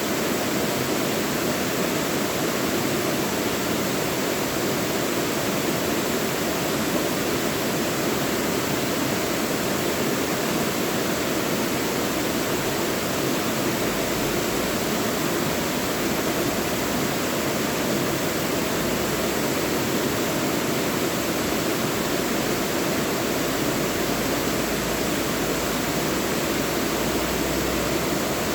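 Mountain valley stream rushing steadily over rocks, a constant even rush of water.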